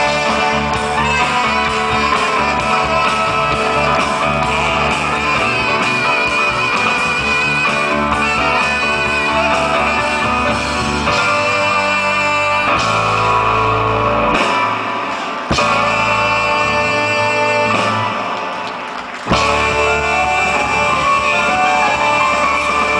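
Live band music with guitar prominent. It drops away briefly twice in the second half and comes straight back in.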